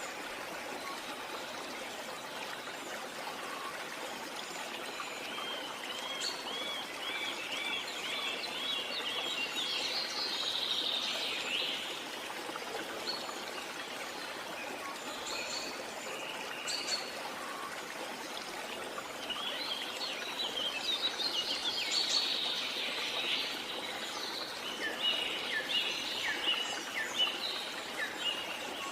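Steady rushing water of a waterfall, with birds calling over it: a quick run of repeated chirps about six seconds in, and busier, overlapping chirping in the second half.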